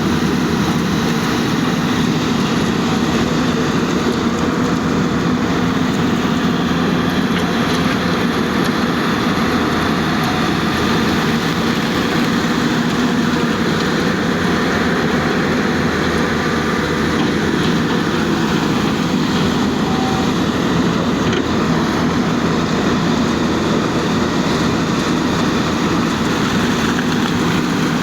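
An excavator's diesel engine running steadily, a loud constant drone with no breaks or changes in pitch.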